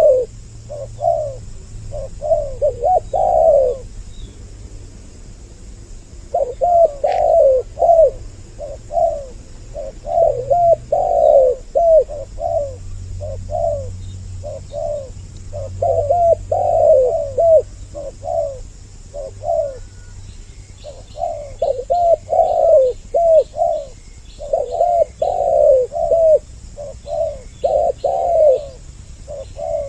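Spotted doves (tekukur) cooing in repeated phrases of several notes, with short pauses between phrases. Faint high chirps from another small bird join in during the last third.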